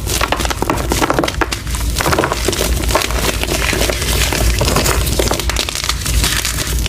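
Reformed gym chalk being crushed and crumbled, a dense, continuous crunching and crackling.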